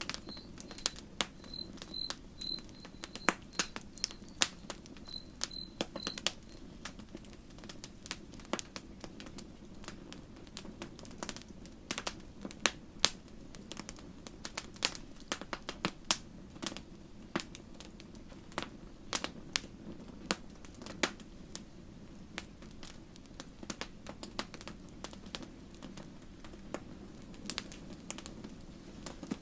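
Campfire crackling, with frequent sharp pops and snaps over a steady low background. For the first six seconds or so an insect chirps in short, evenly spaced high pulses.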